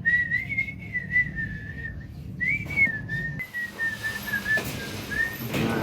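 A person whistling a wandering tune in three phrases, the pitch sliding up and down, with a few faint clicks.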